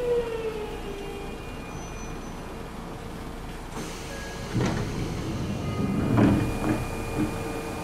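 An electric train's traction motor whine falling in pitch as it brakes to a stop, then a steady electrical hum. About halfway through come several clunks and knocks.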